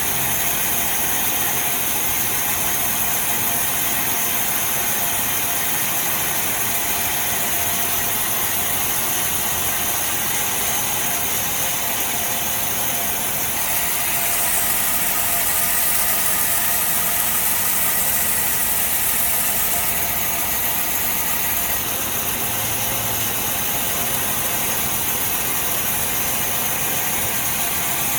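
Sawmill machinery running steadily, a dense mechanical hum and whir, growing slightly louder and brighter for a few seconds about halfway through.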